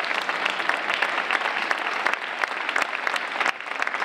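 Audience of schoolchildren applauding in a hall, a dense patter of many hands clapping that dips briefly near the end.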